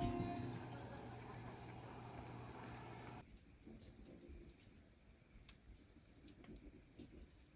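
Faint outdoor ambience with insects trilling in long, high, steady notes that come and go. The tail of a guitar piece fades out at the start, and a few short clicks come near the end.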